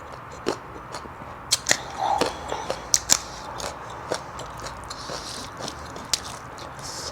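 Close-up eating sounds: chewing with irregular sharp, crisp crunches and wet mouth clicks, a few louder crunches in the first half.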